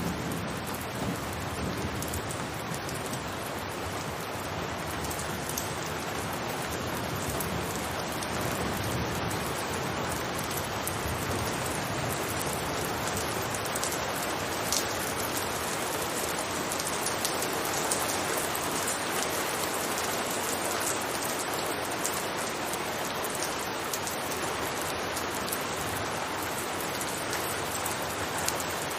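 Steady rain falling on a rooftop: a dense, even patter with scattered individual drops ticking through it.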